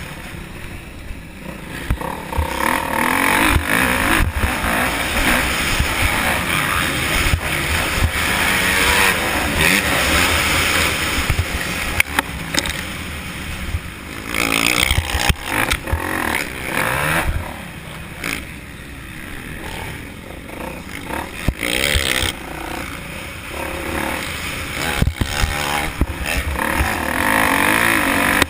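Motocross dirt bike engine revving up and dropping off again and again, its pitch climbing through the gears between loud and quieter stretches.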